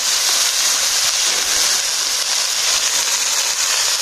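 Chopped watercress greens sizzling in hot oil in a wok: a steady, high-pitched hiss.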